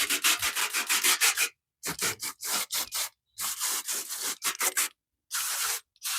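Stiff brush scrubbing back and forth in quick strokes, about seven or eight a second, in short runs with brief pauses, then a steadier rush of noise near the end.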